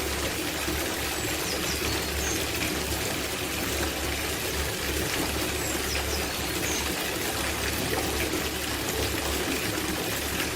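Water pouring steadily into a copper bathtub as it fills, a continuous even splashing rush.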